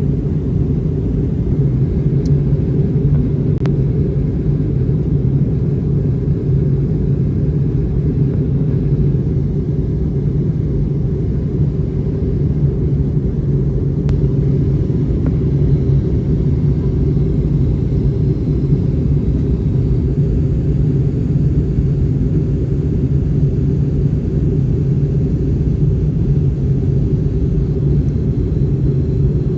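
Airliner cabin noise in flight: a steady, even rumble of engines and airflow heard from inside the passenger cabin.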